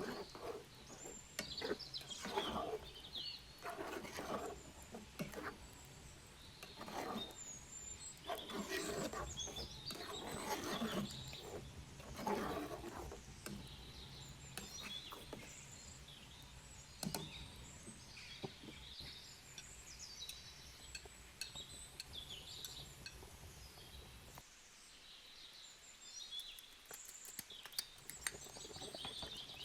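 Small birds chirping again and again, with other intermittent noisy sounds during the first half.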